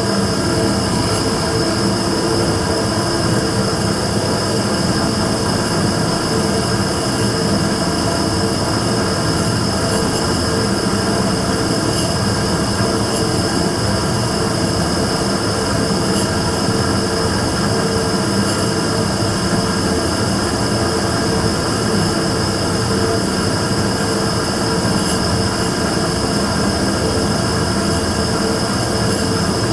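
Immersion tube burner firing continuously: a loud, steady roar with a constant hum and a high steady whine running through it. This is the abnormal noise (異音) the burner is making.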